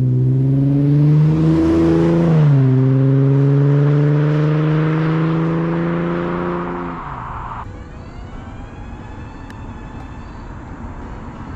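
Lexus IS 350 F-Sport's V6 through a muffler-deleted exhaust, accelerating with a steadily rising note that dips once about two and a half seconds in as it shifts up, then climbs again. About seven seconds in the engine note falls away, leaving a quieter noise.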